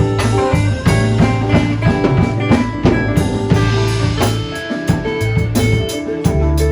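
Instrumental break of a blues song, with a drum kit keeping a steady beat under a bass line and guitar; no singing.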